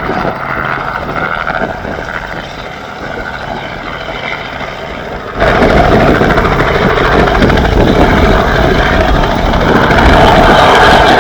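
Robinson R44 helicopter running close by, its piston engine and rotors a steady mechanical din. About halfway through the sound jumps abruptly louder and fuller and stays that way.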